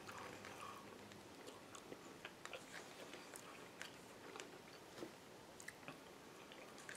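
Faint close-up chewing of spoonfuls of corn kernels, with scattered small mouth clicks.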